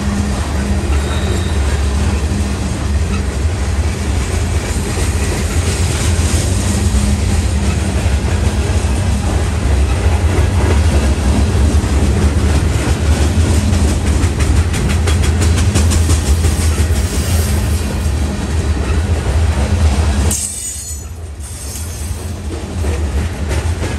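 Freight train of grain cars rolling past, with a steady rumble and wheels clicking rhythmically over the rail joints; the sound drops off suddenly about 20 seconds in.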